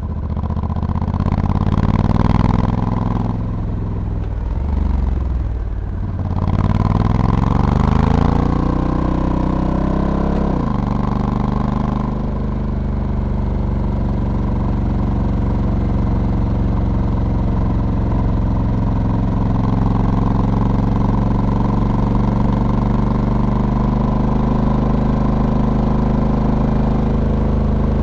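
Honda Africa Twin's 1084 cc parallel-twin engine running under a dual-clutch transmission. The revs rise, ease off, and climb again for the first ten seconds or so, then drop suddenly and hold steady at low revs.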